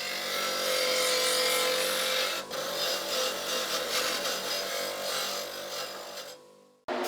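A power tool running steadily against the workpiece: a whirring tone under a rough scraping noise, which fades and stops shortly before the end.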